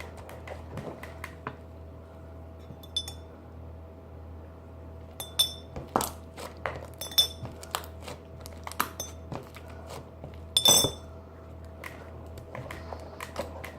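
Spoon clinking and tapping against a bowl as slime is stirred after the borax activator water is added: irregular sharp clicks, several with a brief ringing ping, loudest in a cluster about three-quarters of the way through.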